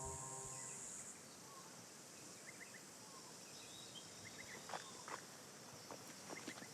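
Quiet bush ambience with scattered faint bird chirps and a few short calls. A held musical chord fades out about a second in.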